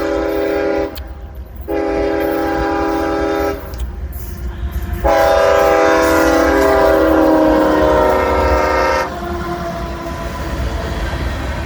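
Freight locomotive air horn sounding in blasts: the end of one blast, a second of about two seconds, then a longer blast of about four seconds whose pitch drops partway through as the locomotive passes. After that, the train rolling by.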